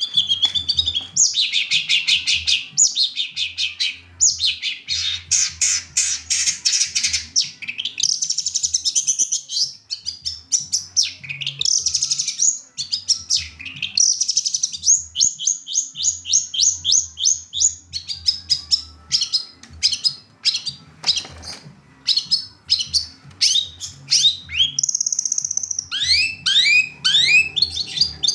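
Long-tailed shrike (cendet) singing in fast, loud bursts of chattering trills and whistles, a medley of other birds' songs it has learned to mimic. Near the end comes a run of quick rising whistles.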